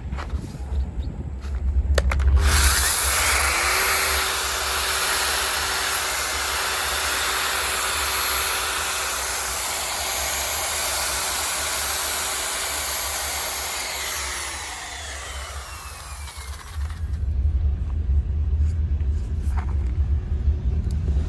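Compressed-air paint spray gun hissing steadily for about fifteen seconds, with a faint steady tone under the hiss, over a low rumble. The hiss starts about two seconds in and fades out near the end.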